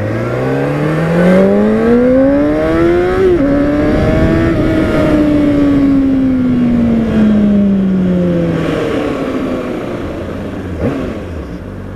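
Honda CBR600RR inline-four engine pulling hard from low revs, its pitch rising steadily for about three seconds. A gear change drops the revs sharply, and they climb briefly again. The revs then ease off and fall slowly for several seconds as the bike slows, with a short rev blip near the end before it settles to a low idle.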